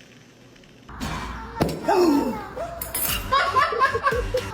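About a second of near quiet, then a person laughing in short repeated bursts.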